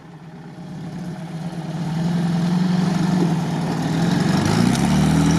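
UAZ off-roader's engine running, growing steadily louder as it comes up close, then revving up about four and a half seconds in, its note rising.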